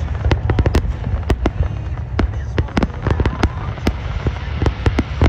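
Aerial firework shells bursting in rapid, irregular succession, several sharp bangs a second over a steady low rumble, as in the dense barrage of a display finale.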